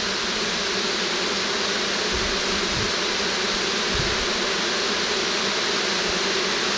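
Dense, steady buzzing of a honey bee swarm settling into a new hive, with bees fanning hard at the entrance as they take to the hive. A couple of faint low bumps sound under the buzzing.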